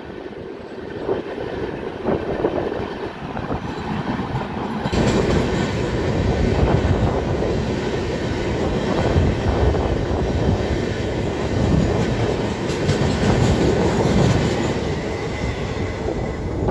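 Two LHB trains running past each other on adjacent tracks: steady rolling rumble of wheels on rail with a rushing noise, growing louder and brighter about five seconds in.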